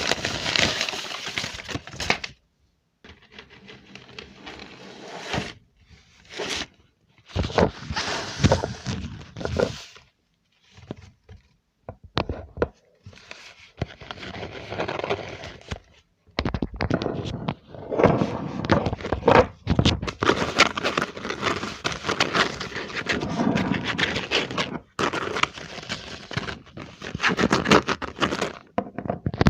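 Close-miked ASMR trigger sounds: noisy scratchy handling sounds in separate stretches of a few seconds each, broken by short gaps of dead silence.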